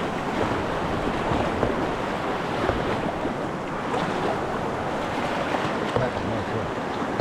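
River water rushing steadily around a kayak in moving current, with a few brief splashes or knocks scattered through.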